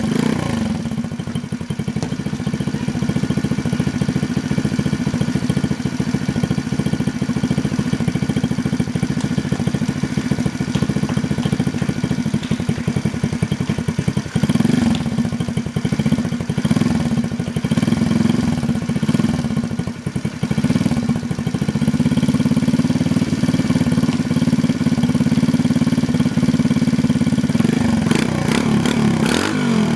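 Modified 110cc Honda Cub single-cylinder four-stroke engine on a Frisco chopper, running at idle. The throttle is blipped a few times about halfway through, and again near the end.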